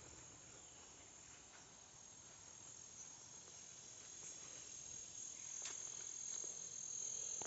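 Faint, steady high-pitched chorus of crickets, with a couple of faint clicks partway through.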